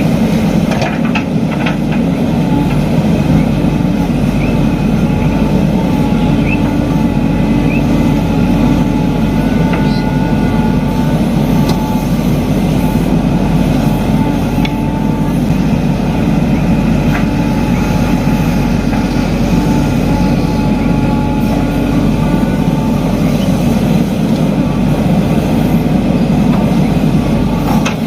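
Heavy diesel engine running steadily, with a faint high whine over it.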